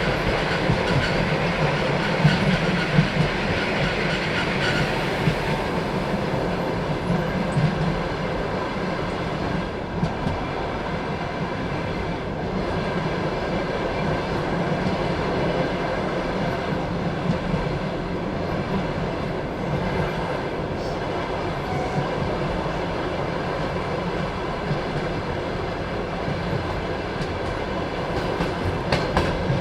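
Passenger train carriage rolling along the track, heard from inside the carriage: a steady rumble of wheels on rails with occasional clicks over rail joints.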